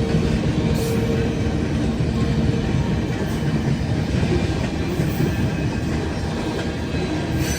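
Freight train cars rolling past in a steady low rumble, with a few faint clicks from the wheels.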